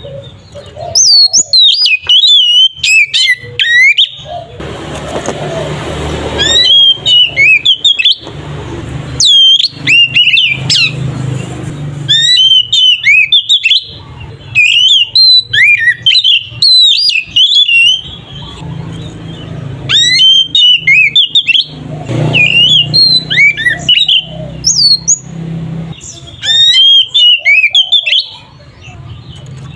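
Oriental magpie-robin singing loud, rapid phrases of sweeping whistles and chattering notes, in bursts of one to three seconds separated by short pauses. A low rumble swells in the background now and then.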